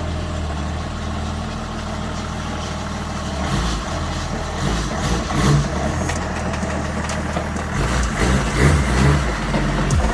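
BMW M57 straight-six turbodiesel, swapped into a Mitsubishi L200 pickup, idling through a 3-inch stainless straight-through side-exit exhaust. It holds steady for the first few seconds and turns less even in the second half.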